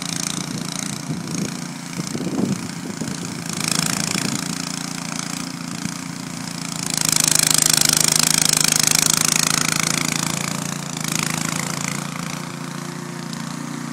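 MTD 26-inch two-stage snowblower engine running steadily, with a rushing hiss that swells and fades over it, loudest from about seven to ten seconds in.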